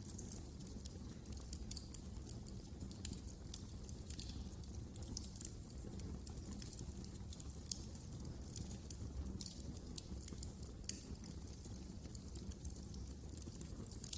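Wood fire crackling in a fireplace: a dense, irregular run of small pops and snaps over a low, steady rumble of the flames.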